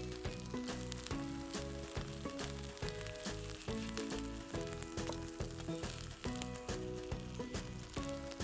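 Sliced onions, curry leaves and ginger-garlic paste sizzling and crackling steadily in hot oil in a black kadai as they sauté. Background music with a steady beat plays under it.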